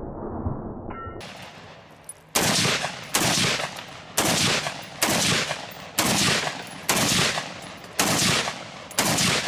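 A firearm fired eight times in slow, steady succession, about one shot a second, starting a little over two seconds in, each shot followed by a short decaying echo.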